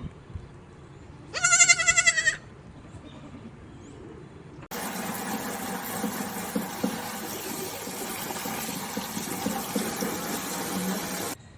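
A goat bleats once, a loud wavering call about a second long. A few seconds later a steady hiss sets in abruptly and cuts off just as suddenly near the end.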